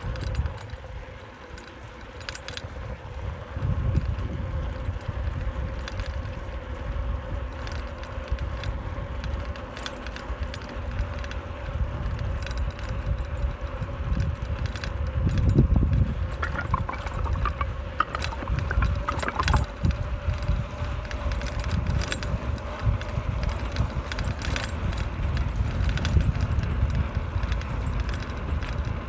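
Riding a bicycle: low rumbling buffeting with frequent rattles and ticks from the bike over the pavement, under a faint steady hum. A short burst of higher squeaks comes about two-thirds of the way in.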